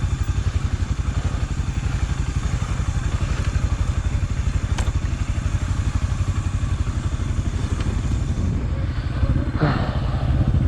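Honda XRE300's single-cylinder four-stroke engine running steadily on the trail, with a short louder noise about nine and a half seconds in.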